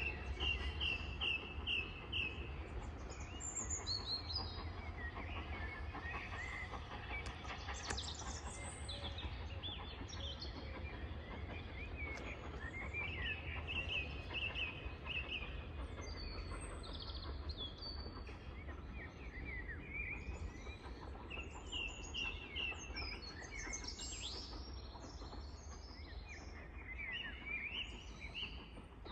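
Birds singing, with many short chirps and repeated trills throughout, over a steady low rumble.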